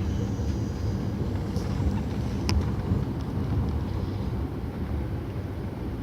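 Steady low rumble of a moving train, with one sharp click about two and a half seconds in.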